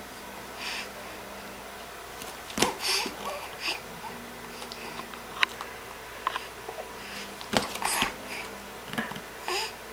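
Baby's soft breathy sounds and sniffs, short and scattered, with a few small clicks and rustles between them.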